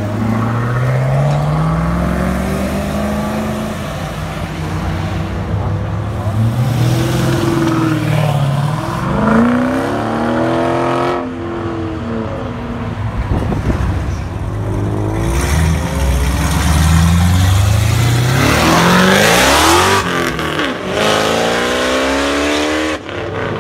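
Performance cars accelerating hard away one after another, starting with a Chevrolet Camaro ZL1's V8. Each engine's pitch climbs, then drops back at each gear change, with the loudest pull near the end.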